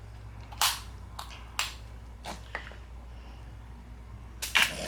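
Snow crab leg shells cracked and snapped apart by hand: several sharp cracks, the loudest about half a second in, a second and a half in, and near the end.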